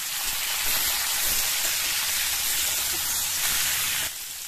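Cubes of man kochu (giant taro) and potato sizzling steadily in hot oil in a steel karai, a loud even frying hiss that stops abruptly near the end.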